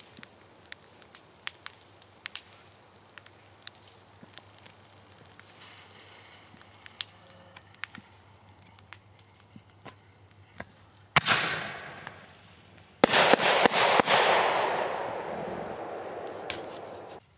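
Consumer fireworks going off. A single sharp bang with a short hiss comes about 11 seconds in. About two seconds later a quick cluster of loud cracks is followed by a few seconds of hissing crackle that fades and then stops abruptly.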